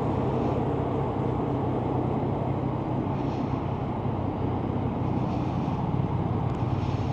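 Yamaha Tracer 900's three-cylinder engine running steadily at low revs, heard through a helmet microphone as an even low hum with no revving.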